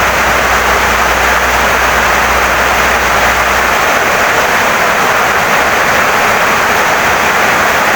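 Heavy rain pouring steadily on a wooden house, an even loud hiss. A low hum underneath stops abruptly about halfway through.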